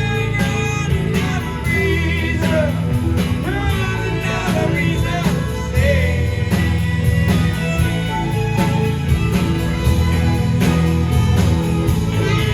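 Live rock band playing an instrumental passage between sung lines of a song: a steady drum beat and bass under a gliding lead melody line.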